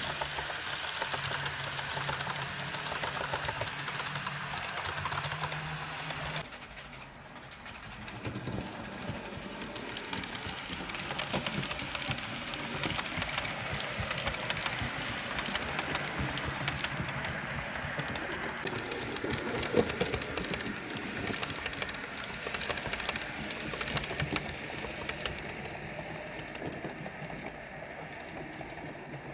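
Model train running on the layout's track: a small electric motor humming, with fine rapid clicking from wheels on rail. About six seconds in the sound changes and drops, then it runs on steadily.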